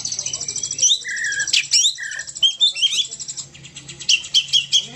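Oriental magpie-robin (kacer) in full song: fast runs of high, rapidly repeated notes mixed with short whistled notes that slide up and down, with harsher squawky notes in between.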